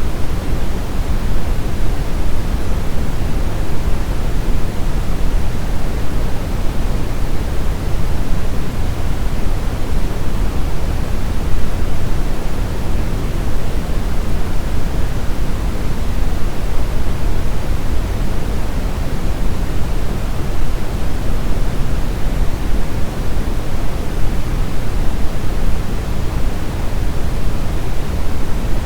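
Brown noise: a steady, unvarying hiss-like rumble, heaviest in the low end and falling off toward the highs.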